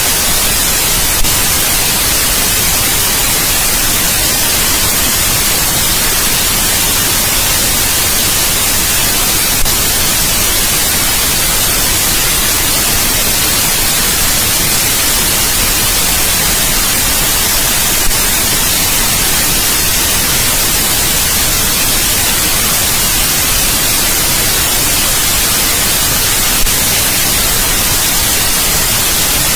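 Steady white noise: an even, unbroken hiss that is strongest in the high frequencies. A faint click sounds about every eight and a half seconds.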